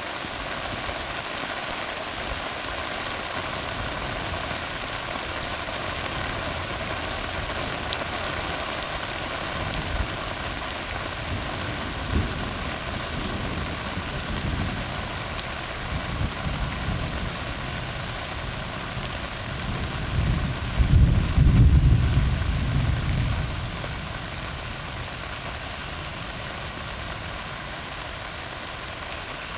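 Steady rain falling on a tar road. A low rumble of thunder builds through the middle, is loudest about three quarters of the way in, then fades away.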